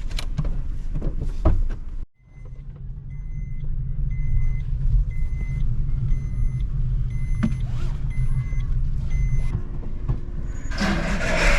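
Stationary car with its engine idling and the car's warning chime beeping steadily, about once every two-thirds of a second, for several seconds. A short burst of rustling and knocking near the end.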